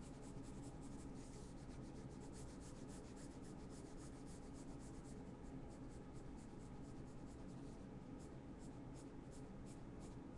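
Faint scratching of drawing strokes: many short strokes in quick succession, over a steady low hum.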